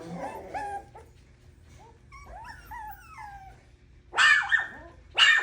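Five-week-old Coton de Tulear puppies whining with high, rising-and-falling cries, then two loud yaps about four and five seconds in.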